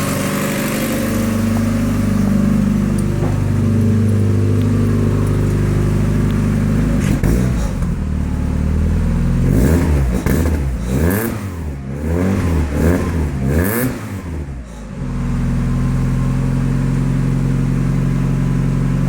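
Mazda MX-5 Mk1 1.6-litre four-cylinder engine idling, then revved in a series of quick blips, each rising and falling, from about seven to fifteen seconds in, before settling back to a steady idle.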